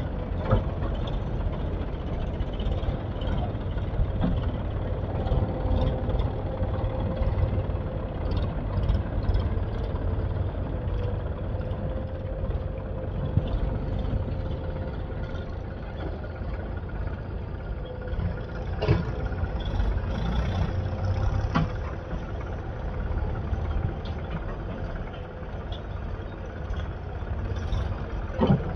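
Diesel engine of heavy machinery running steadily with a low rumble, with a few sharp knocks about two-thirds of the way through and again near the end.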